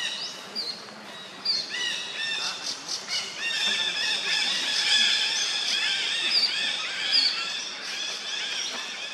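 Birds calling: many short, rising chirps overlapping one another, thickest around the middle.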